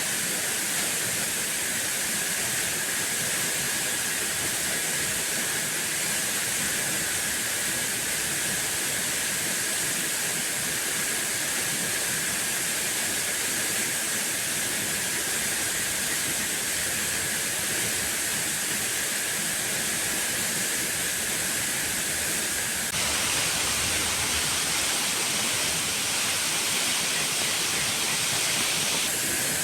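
Steady rush of a waterfall, with a thin, steady high tone above it. About two-thirds of the way in, a louder hiss joins for several seconds, then drops away.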